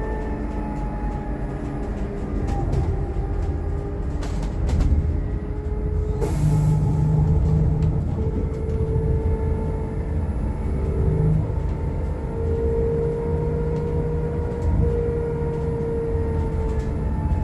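Electric bus drivetrain running: a steady electric-motor whine with several tones over low road rumble, the tones drifting slightly in pitch and coming and going. A brief hiss of air about six seconds in.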